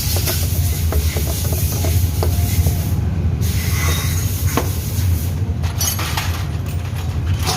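A steady low mechanical hum with a hiss above it and scattered light clicks and knocks.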